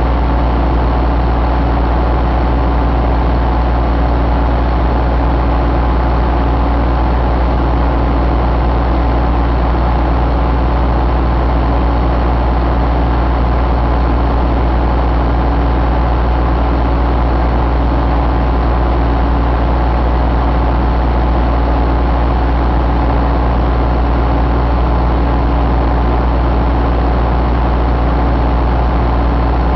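Isuzu 4JB1 four-cylinder diesel engine idling steadily.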